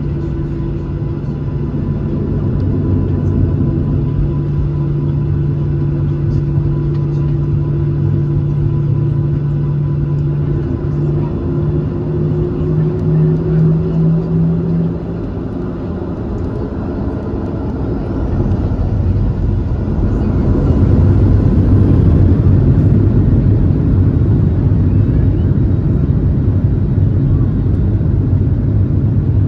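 Boeing 737-700 heard from inside the cabin: its CFM56-7B turbofans give a steady hum with a slowly rising whine. About fifteen seconds in the tones break off, and a few seconds later the noise swells into a louder, deeper rumble as engine power goes up, typical of the takeoff run.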